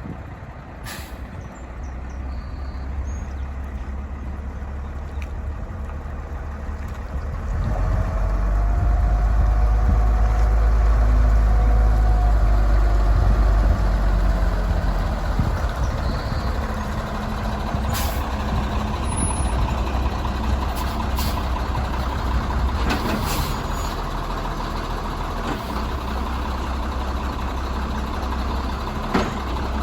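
M930A2 5-ton military dump truck's diesel engine running, the rumble rising about eight seconds in and holding for several seconds under heavier load with a faint rising whine, then easing back. A few short sharp sounds, typical of air-brake releases, cut through in the second half.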